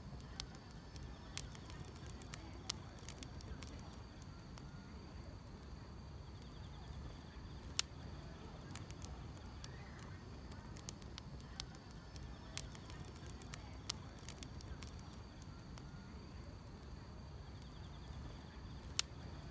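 Wood fire crackling: irregular sharp pops and snaps, the loudest about 8 seconds in and near the end, over a low steady rumble of the burning logs. Faint insect chirring runs underneath.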